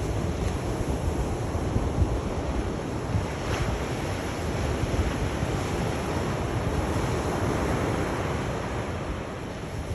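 Sea waves breaking and washing on the shore in a continuous rush, with wind buffeting the microphone.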